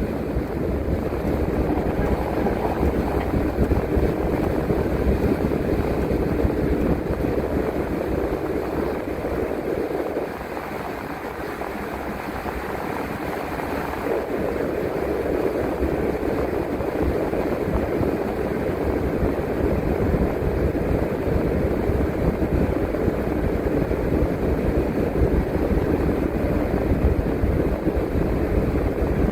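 City bus driving, its engine and road noise heard steadily from the driver's seat, easing off for a few seconds around the middle before building again.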